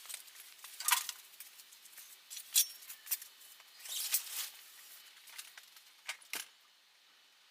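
Scattered handling noises: irregular clicks, taps and short scrapes, as of tools or parts being moved about. They stop about six and a half seconds in.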